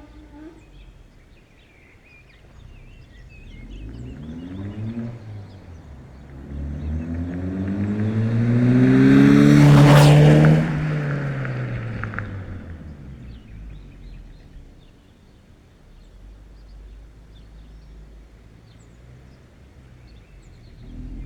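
2007 Mazda 6's 2.3 L four-cylinder Duratec, its single exhaust running with the intermediate silencer deleted and a Sebring rear silencer, accelerating past: the engine note climbs, dips at a gear change, climbs again to its loudest about ten seconds in as the car goes by, then falls in pitch and fades away.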